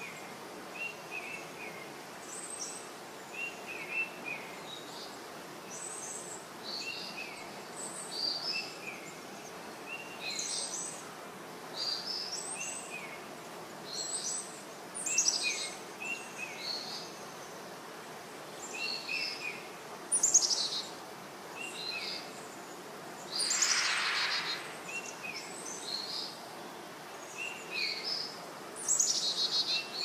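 Rainforest birds calling: short chirps repeated every second or two, some low and some high, over a steady forest hiss. About two-thirds of the way through, a harsher, noisier sound lasts about a second.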